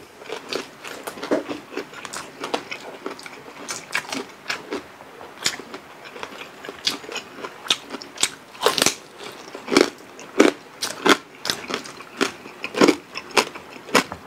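Two people eating crispy deep-fried pork leg (crispy pata) and rice with their hands: irregular sharp crunches and chewing clicks, several a second, with no talk.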